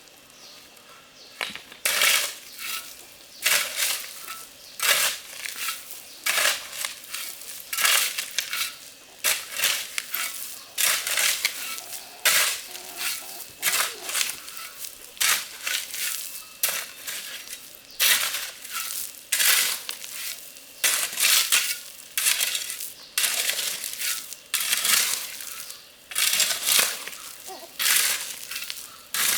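Repeated gritty crunching scrapes, irregular, roughly one or two a second.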